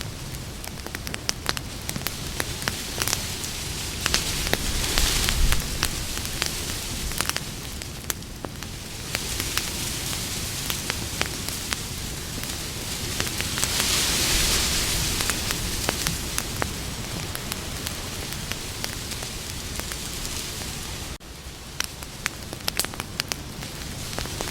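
Campfire burning: a steady hiss of flames with frequent sharp crackles and pops. The hiss swells about five seconds in and again around fourteen seconds, and it briefly drops away about three-quarters of the way through.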